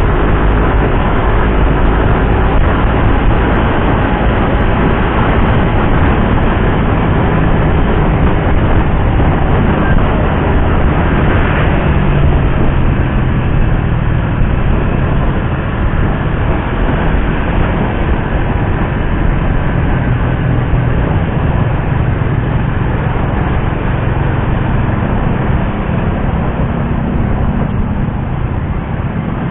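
Suzuki GSX-R150's single-cylinder engine running while the motorcycle is ridden, a steady engine note with small changes in pitch. It gets a little quieter near the end.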